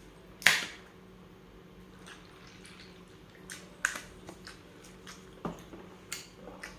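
Close-up eating sounds: scattered wet mouth smacks and clicks while chewing, the loudest about half a second in.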